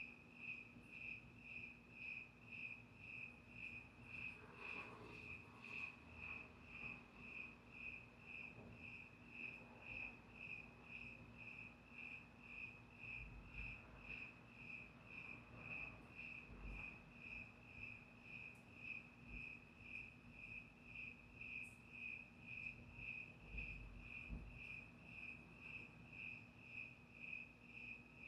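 Cricket chirping in a steady, even rhythm, about two high chirps a second, faint.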